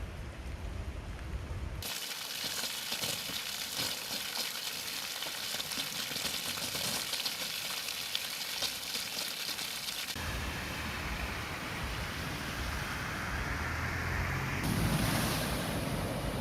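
Heavy downpour: a dense, crackling hiss of rain beating on hard surfaces. The sound changes abruptly about 2, 10 and 15 seconds in, and a low rumble underlies the parts before and after the loudest hiss.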